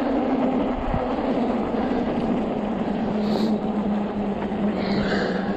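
Fat-tire electric bike riding over bumpy, snow-covered pavement: a steady hum from its hub motor over the rumble of the tyres.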